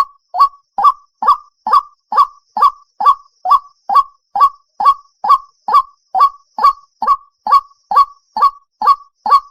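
White-breasted waterhen calling: a short, harsh note repeated at an even pace, about two a second. It is a waterhen call used as a lure to draw the birds out of cover.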